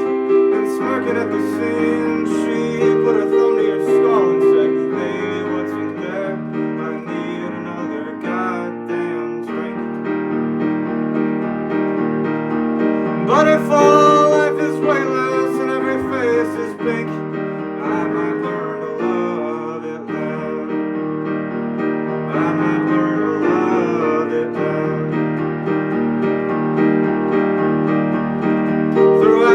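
Live keyboard-led music: a piano or keyboard playing held chords that change every second or two.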